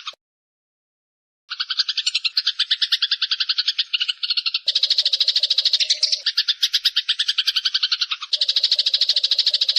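Eurasian tree sparrow giving a long, rapid rattling chatter of evenly repeated notes. It cuts out just after the start, is silent for over a second, then resumes and runs on.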